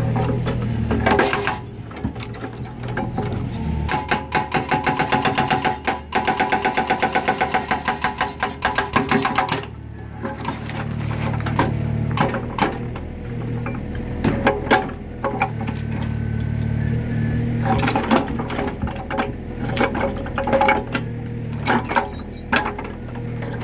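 Mini excavator's hydraulic breaker hammering concrete in a rapid, even rhythm for about six seconds, then stopping, over the excavator's engine running. Scattered irregular knocks and clanks come before and after the hammering.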